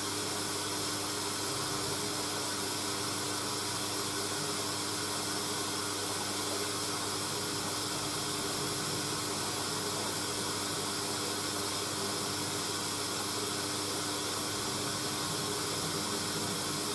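Hoover A3060 Electronic 1100 washing machine running mid-cycle: a steady hiss with a faint, even hum under it.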